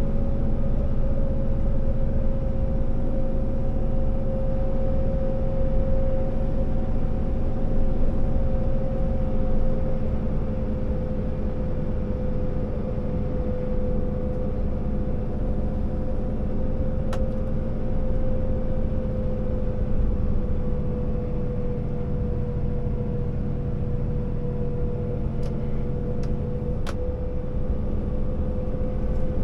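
Scania R650 timber truck's V8 diesel engine running steadily under way, with a steady whine that drops slightly in pitch over the stretch. A few faint clicks in the second half.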